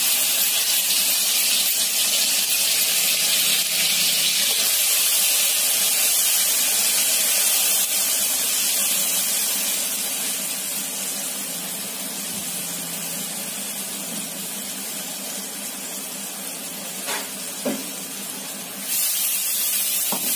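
Freshly added ingredients frying in hot oil in a wok: a loud, steady sizzle that eases off after about ten seconds and rises again near the end. A few light knocks of the stirring spoon on the wok come near the end.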